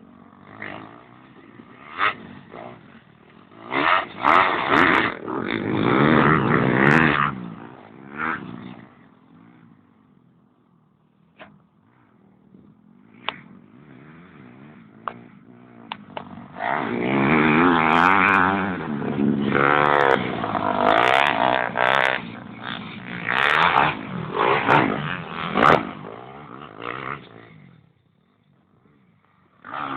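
Motocross dirt bike engine revving and running under throttle, with two loud spells about four seconds in and again from about sixteen to twenty-seven seconds. The engine fades low between them.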